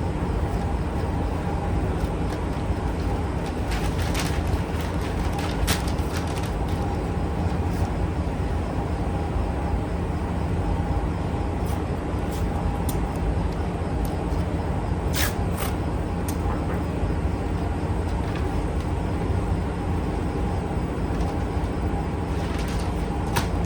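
Steady low mechanical rumble with a faint hum, broken by a few light clicks.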